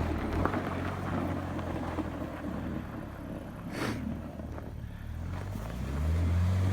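BMW 335i's turbocharged inline-six running at low revs, then revving up about five and a half seconds in and held louder toward the end as the car tries to build speed in snow. A single short sharp knock sounds around the middle.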